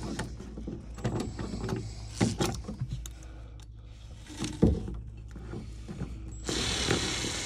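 Scattered knocks, clicks and rattles of hands working with tools and parts, over a steady low hum; a steady hiss starts suddenly near the end.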